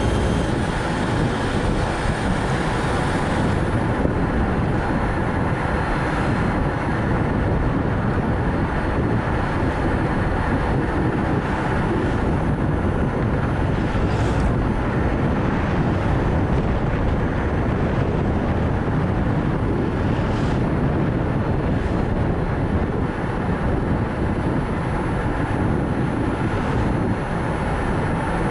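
Nissan Note e-POWER driving along a road: a steady rumble of tyre and road noise mixed with wind, with a few brief swells.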